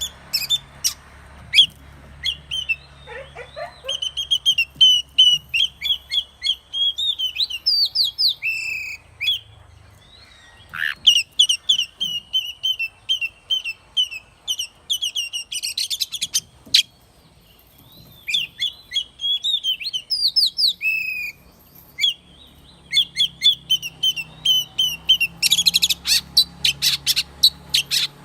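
Oriental magpie-robin singing: long phrases of rapid, repeated whistled notes mixed with sharp, varied calls, broken by a few short pauses.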